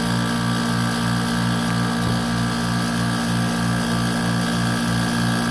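Goodman package heat pump running a defrost cycle: a steady machine hum with a low throb that pulses about four times a second. It is a dry defrost, running with no ice on the outdoor coil because of timed interval defrost.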